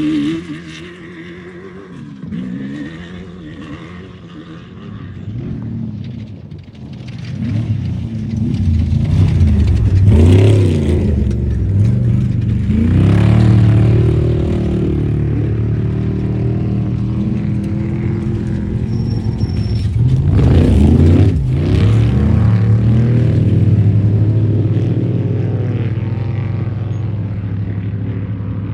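Off-road race vehicles' engines revving and running past, fainter at first, then louder, with two close passes about a third and three quarters of the way through.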